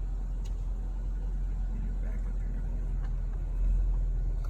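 Steady low rumble, with a couple of faint clicks about half a second and three seconds in.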